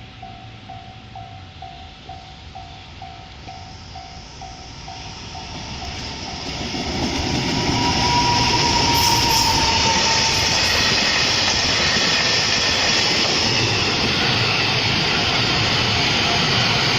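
A level crossing's warning bell dings steadily, about two to three times a second, while a train approaches. The bell stops about five seconds in, and the train's noise builds to a loud, steady rumble as it passes close by.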